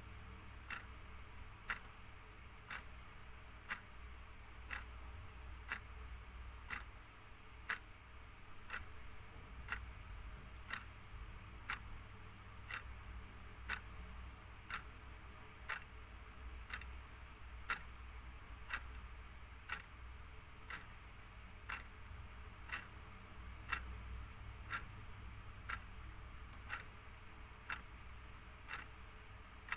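Clock ticking steadily at about one tick a second, over a faint low hum.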